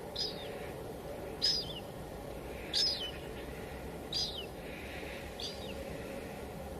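A bird repeating a short, high call with a quick downward tail, five times at an even pace of roughly one call every 1.3 seconds, over the steady hiss of light drizzle.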